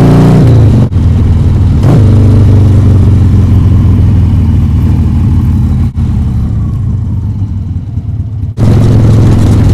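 Harley-Davidson Sportster 1200's air-cooled V-twin running under way. The engine note cuts out briefly about a second in and again near six seconds, runs quieter for a couple of seconds, then comes back on strongly near the end.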